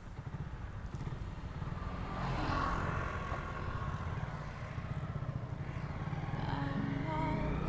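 Motorcycle engine running while riding, a steady low pulsing rumble that grows louder over the first few seconds.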